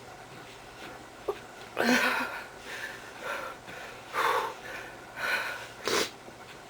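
A series of wheezy, raspy breaths, five or six of them about a second apart, with a single sharp click between the first two.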